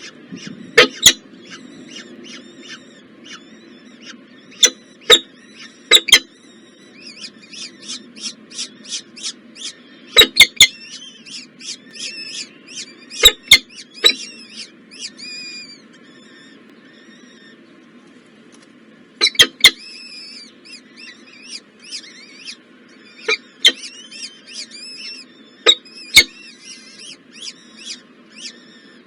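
Nestling birds cheeping in quick runs of short, high chirps, with sharp loud clicks scattered through, over a steady low hum.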